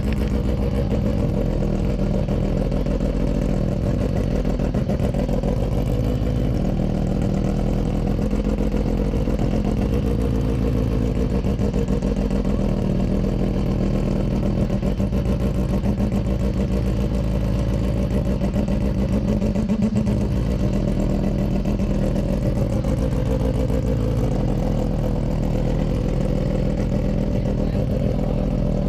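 Mazda RX-792P race car's rotary engine running loudly and steadily near idle, its pitch wavering slightly now and then.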